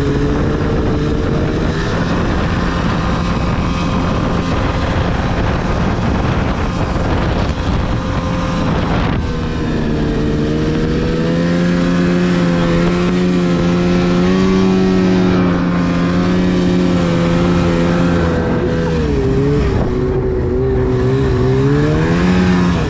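2010 Arctic Cat CFR 1000 snowmobile's two-stroke engine running under way through deep snow, with a steady engine note over track and snow noise. About nineteen seconds in the revs drop, then climb again near the end.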